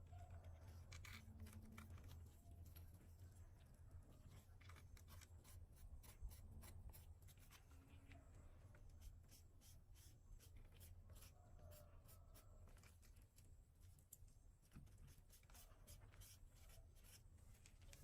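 Faint, irregular scraping and clicking of a hoof knife paring horn from a cow's hoof, over a low steady hum.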